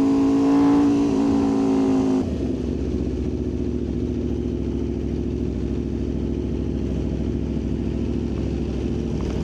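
Aprilia RSV4's V4 engine running at steady revs, then the throttle is shut off abruptly about two seconds in and the engine settles to a steady, quieter low idle.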